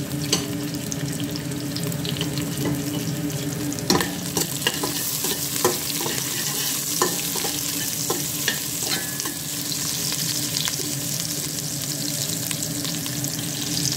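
Chopped onion, garlic, ginger and whole spices sizzling in hot oil in a stainless steel pot. A spatula scrapes and clicks against the pot as they are stirred, the clicks coming mostly in the middle of the stretch.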